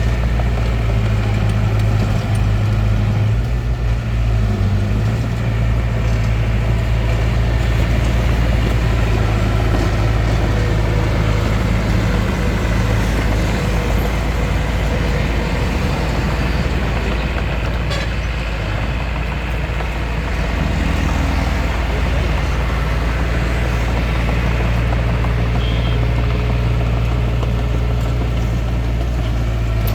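Compact bulldozer's diesel engine running steadily under work, a constant low drone that strengthens and eases slightly as it pushes.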